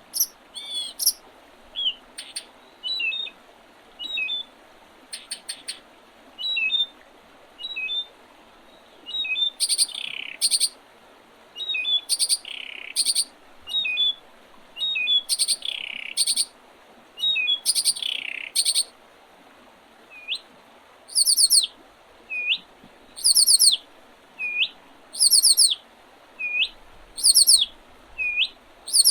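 Songbirds singing: short high chirps and trills, with several downward-sweeping calls in the middle, then a regular run of hooked notes about one a second, over a faint steady hiss.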